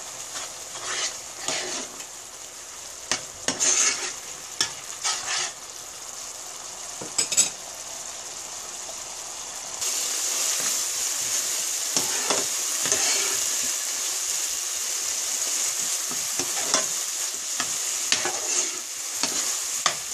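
Masala paste frying and sizzling in a non-stick pan while a metal spoon stirs and scrapes through it: the masala being fried until cooked through. Several short scraping strokes come in the first half, and the sizzle grows louder about halfway through.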